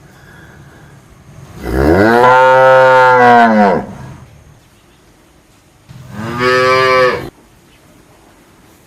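A cow mooing twice: a long moo about two seconds long that rises and then falls in pitch, then a shorter moo that cuts off suddenly.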